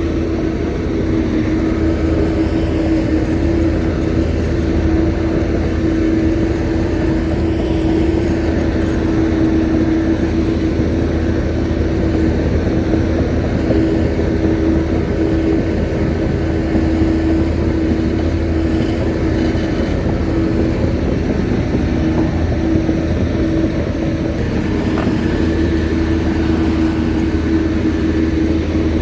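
Shantui bulldozer's diesel engine running steadily, with a strong steady whine over a low engine hum.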